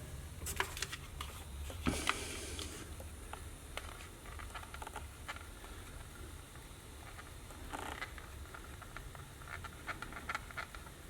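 Cotton swab rubbing and scraping on a Walkman's rubber pinch roller during cleaning, with small clicks and handling noises from the plastic player; a longer scrape comes about two seconds in, and bursts of small clicks and scratches near the end.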